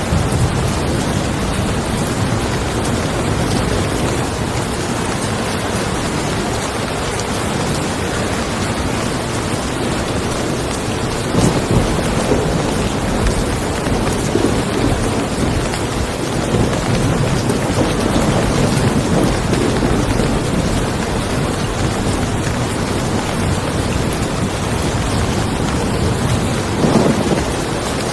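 Steady rain falling on a car, with rumbles of thunder swelling about eleven seconds in and again near the end.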